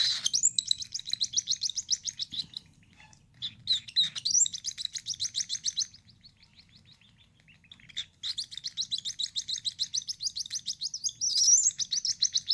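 Baby cockatiel chick giving its food-begging calls while being hand-fed: rapid strings of high, repeated chirps in three bouts, with short pauses between them.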